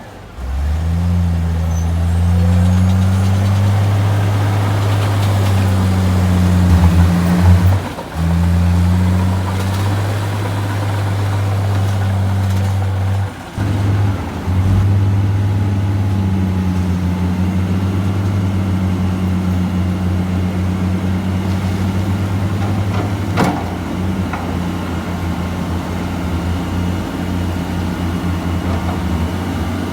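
Heavy earthmoving machine's diesel engine running steadily with a low drone, broken by a few short gaps in the first half. A single sharp click comes about two-thirds of the way through.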